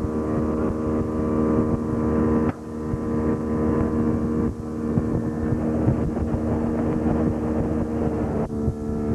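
A boat's engine running steadily under way, with wind on the microphone. The sound shifts abruptly a few times.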